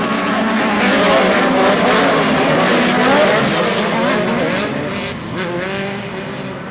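Several off-road racing engines running hard, their pitches rising and falling together as the pack revs and lifts off; the sound eases a little near the end.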